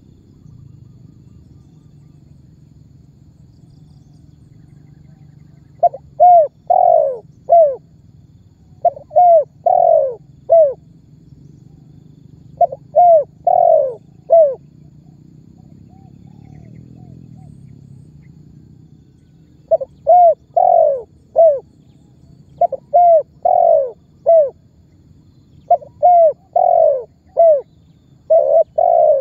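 Spotted dove (tekukur) calling: phrases of three or four short coos repeated every few seconds, starting about six seconds in, over a faint low hum.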